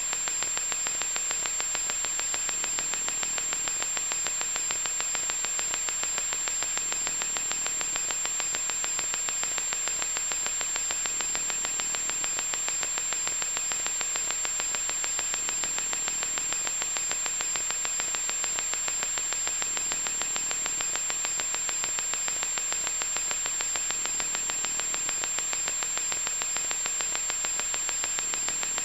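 Loud static noise: a steady hiss with a fast, fine crackle running through it and a thin, high steady whine on top.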